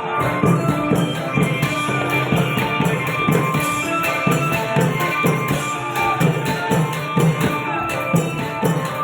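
Thai klong yao long-drum ensemble playing a steady, driving folk rhythm, with small cymbals jingling on the beat over held melody notes.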